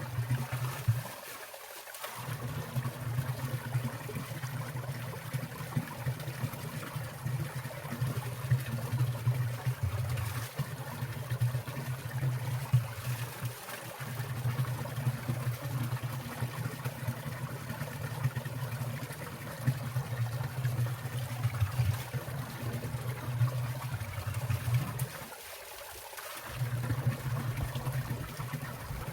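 Water trickling and falling in a mountain stream, a steady splashing wash with a low rumble underneath that drops out briefly twice.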